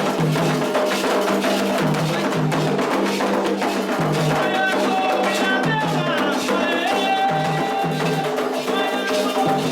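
Candomblé ceremonial music: drums and percussion with a rattle and a wood-block-like click, steady throughout, with voices singing, most clearly in the second half.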